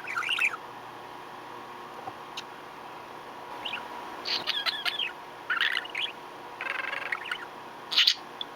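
Budgerigar chirping and warbling in about six short bursts of quick, rapidly changing notes, with a sharp, loud chirp near the end.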